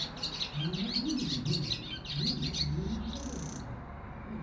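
Barn swallows twittering in a fast, jumbled run of chirps that stops a little after halfway, followed by one short high note. A low, wavering hum sounds underneath.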